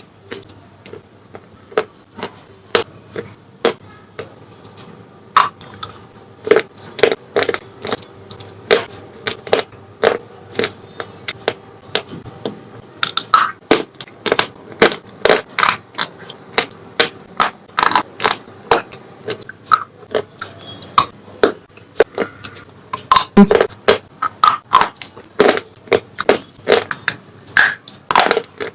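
Slate pencils being bitten and chewed close to the microphone: a run of sharp, irregular crunches and cracks, about one to three a second.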